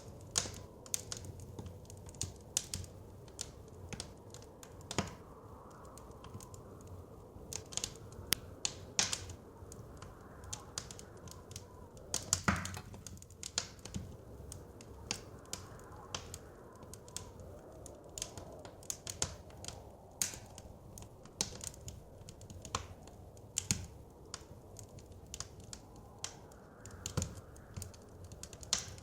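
Wood fire crackling and popping at irregular intervals, with one louder pop about halfway through. A soft wind sound swells and fades underneath.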